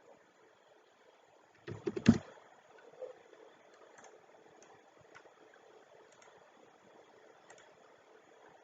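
A quick cluster of clicks and knocks from a computer mouse and keyboard about two seconds in, then one more click and a few faint ticks over quiet room tone.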